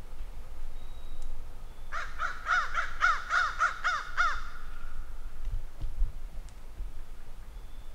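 A bird calling: a quick run of about ten short, arched, clear notes, about four a second, lasting some two and a half seconds and beginning about two seconds in.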